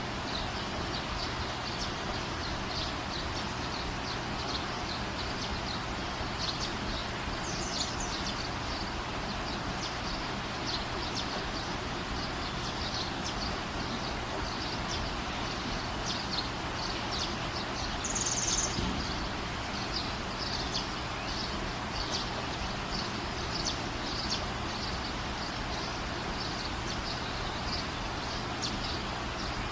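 Many short, high bird chirps repeating over a steady background hiss, with two louder chirps, one about a quarter of the way in and one past the middle.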